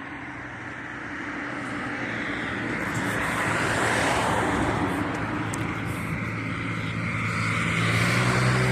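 A vehicle going by outdoors, its noise building over a few seconds and then holding.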